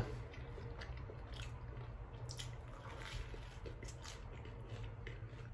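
A man chewing a mouthful of grilled cheese sandwich: faint, irregular chewing sounds.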